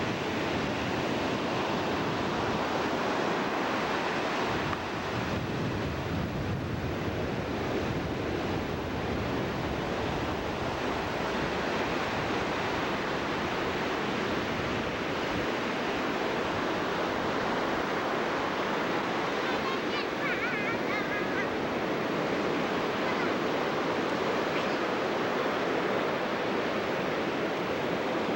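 Ocean surf washing steadily onto the beach, a continuous rushing of waves, with some wind on the microphone.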